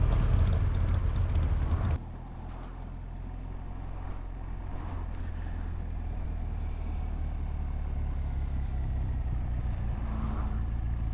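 Motorcycle engine and wind noise heard from the bike while riding along. The sound drops suddenly about two seconds in, then slowly builds again.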